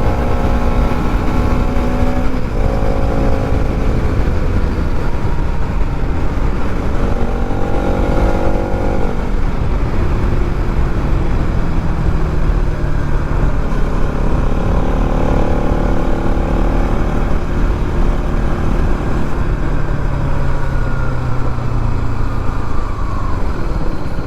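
Bajaj Pulsar NS200's single-cylinder engine and exhaust under way, its pitch climbing and falling several times with throttle and gear changes, over heavy wind rumble on the microphone.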